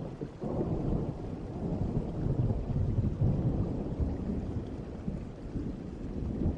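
Distant thunder rolling in a long low rumble over steady rain. The rumble swells about half a second in and keeps rolling.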